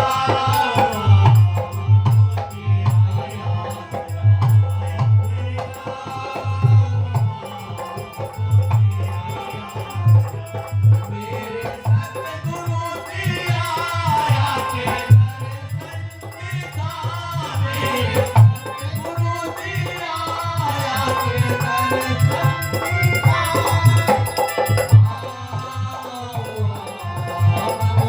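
Devotional hymn (shabad) sung live: a voice singing over a steady, even hand-drum beat with rattling percussion.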